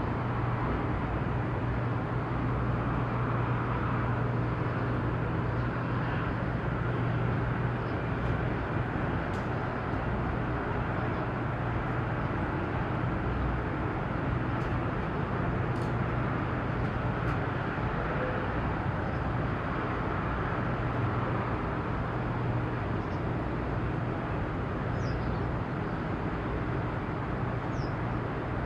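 Steady low engine drone with a constant hum, in open harbour ambience; a few faint high chirps come near the end.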